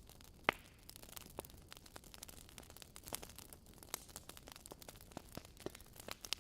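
Wood fire crackling in a fireplace: irregular sharp pops and snaps over a faint low hiss, with one louder pop about half a second in.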